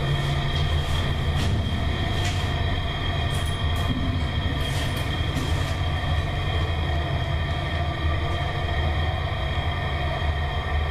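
1967 Schmidt freight elevator running in travel: a constant low hum with a steady high-pitched whine over it and a few light clicks.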